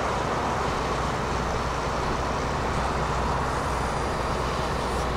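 Heavy diesel machinery running steadily, a continuous even engine noise with a low hum and no change in pace.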